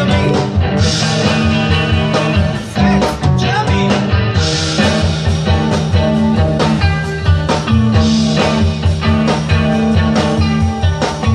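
Live rock band playing, with electric guitar over a steady drum beat.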